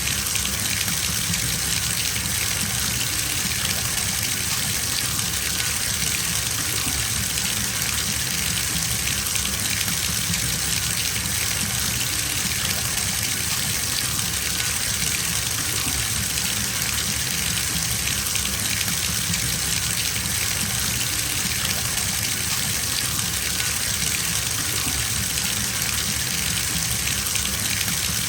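Bathtub tap running full into the tub, a steady gushing splash of water pouring into the filling bath.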